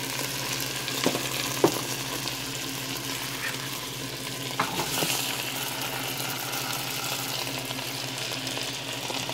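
Seasoned chicken pieces frying in hot melted butter in a pot: a steady sizzle, with a few sharp clicks about a second in and again around five seconds.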